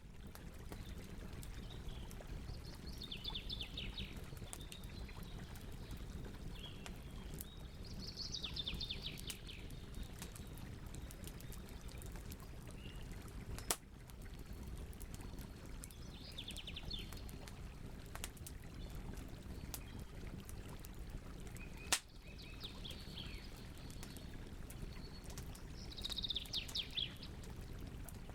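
Campfire burning with a steady low rush and fine crackling, and two sharp pops, one about halfway through and one a few seconds later. A songbird sings short trilled phrases every few seconds.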